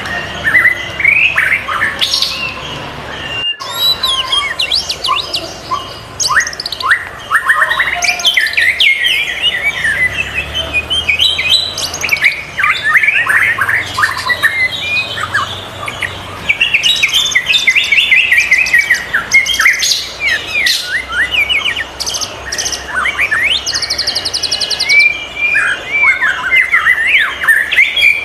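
White-rumped shama singing a long, varied run of rapid chirps, whistled sweeps and fast trills, with hardly a pause. The song breaks off briefly about three and a half seconds in.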